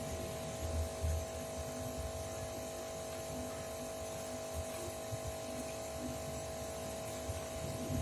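Steady electrical hum, with a few faint low knocks and rumbles of handling.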